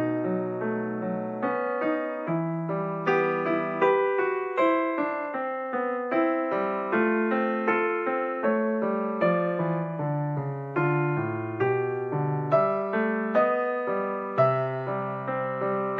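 Background piano music: a melody of struck notes over a lower accompaniment, notes several a second with clear attacks that fade.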